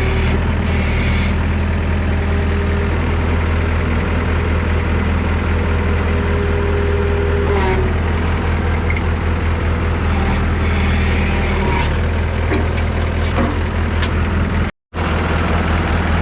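Massey Ferguson 3165 backhoe tractor's diesel engine running steadily. A faint steady whine sits over it and stops about eight seconds in. The sound cuts out completely for a moment near the end.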